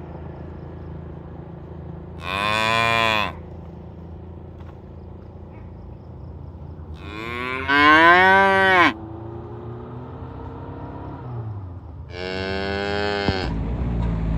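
Cows mooing: three separate long moos, the middle one the loudest, its pitch rising then falling. A low steady hum runs underneath, and a low rumble builds near the end.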